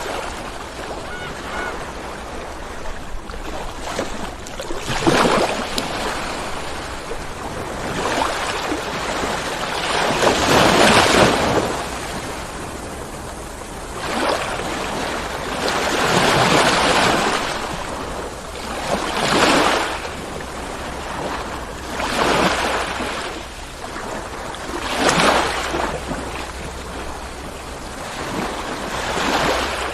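Ocean waves breaking and washing onto the shore, a rush of surf swelling and fading every few seconds, the biggest one about ten seconds in, over a steady low rumble.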